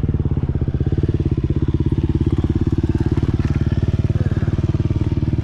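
Motorcycle engine idling steadily, with an even, rapid pulse and no change in speed.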